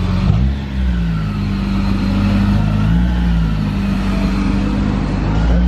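Honda S2000 CR's 2.2-litre four-cylinder engine running at low revs as the car creeps along, its pitch rising and dipping slightly with the throttle.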